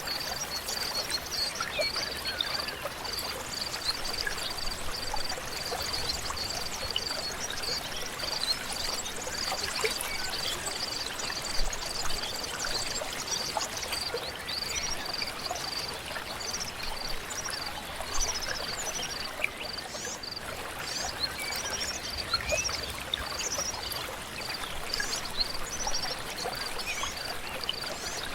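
A river or stream flowing with a steady rush of water. Over it, a rapidly repeated high note pulses through most of the clip, and a bird sings a run of quick high chirps in the last third.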